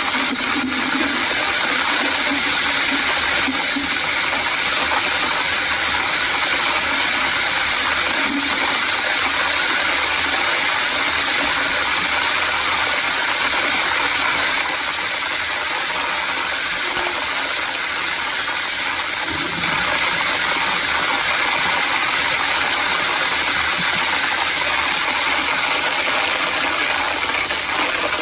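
Heavy rain drumming on the windshield and roof of a moving car, heard from inside, with tyres hissing on the wet road. It is a steady rushing noise that eases slightly for a few seconds midway.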